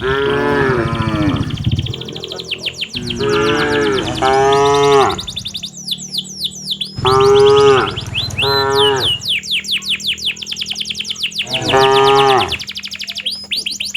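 Cattle mooing: about six long, bending moos from the herd, some in quick pairs, with rapid high-pitched chirping in the background between the calls.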